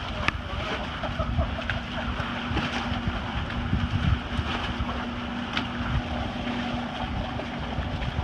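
A motor running at a steady pitch, with wind buffeting the microphone and a few short clicks.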